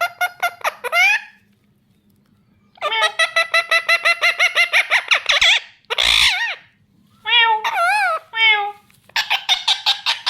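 Pet parakeet calling: bursts of rapid repeated chattering notes, a long run of them lasting nearly three seconds, then a harsh squawk about six seconds in, a few separate wavering calls, and another rapid burst near the end.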